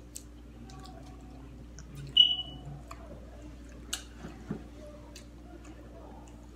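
Quiet eating sounds: scattered small clicks and smacks of chewing and biting into corn on the cob coated in crushed Takis. A brief sharp high squeak about two seconds in is the loudest sound.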